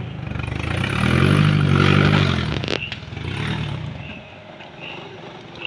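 Off-road vehicle's engine revving in a long swell that rises and falls, then settling lower. A sharp click comes near the middle and a knock right at the end.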